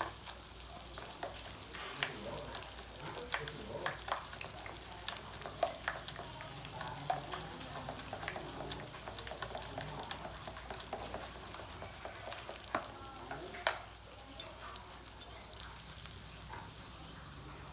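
Cake batter frying in hot oil, sizzling with many scattered pops and crackles that thin out over the last few seconds.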